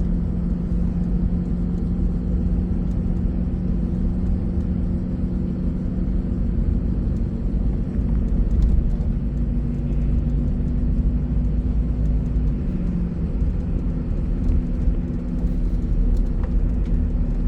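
Bus engine running steadily with a continuous low road rumble, its engine note dipping slightly about twelve seconds in.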